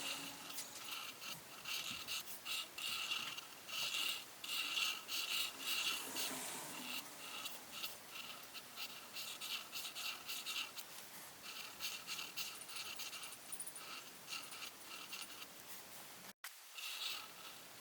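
Rapid back-and-forth scratching of a coloring tool on paper, in runs of quick strokes that come and go. The sound cuts out for an instant near the end.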